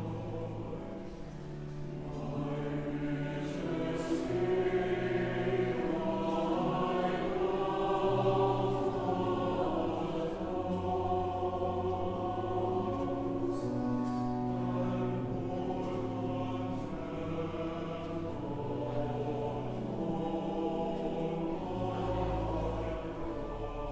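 Slow choral music: a choir sings long held chords over a sustained low bass line, swelling in loudness a few seconds in.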